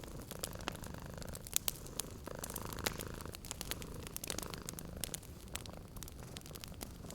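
Domestic cat purring steadily, with a wood fire crackling in sharp, irregular pops.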